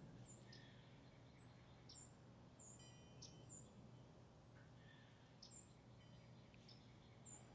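Faint songbird chirps from several birds: short, high, sharp notes repeating at irregular intervals over a low steady background hum.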